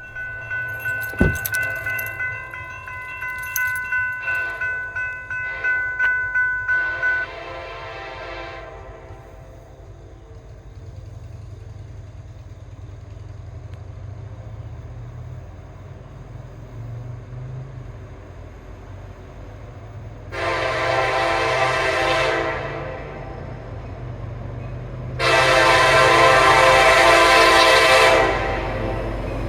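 Diesel freight train rumbling past a grade crossing, whose warning bell rings about three strikes a second for the first several seconds and then stops. Later the lead locomotive, a KCS SD70MAC, sounds its air horn in two long blasts, the second louder.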